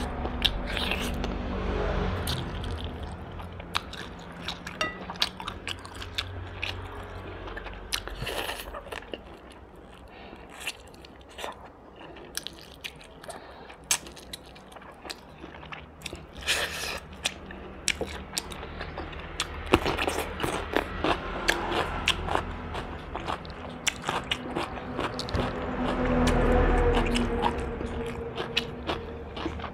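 Close-up chewing and biting of roast duck, with many short crunches and clicks in the mouth.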